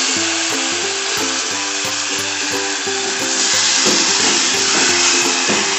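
Background music with a simple repeating melody over a steady sizzling hiss from the hot steel pot as tamarind pulp is poured into the fried coconut mixture and stirred with a steel ladle.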